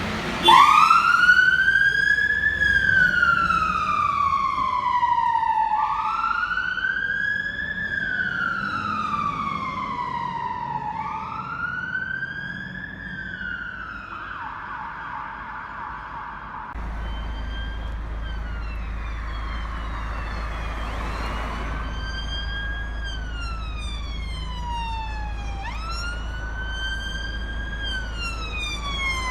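Emergency-vehicle siren sounding a wail: each cycle rises over about two seconds, then falls more slowly, repeating roughly every five seconds. About two-thirds of the way through, a steady low hum comes in underneath.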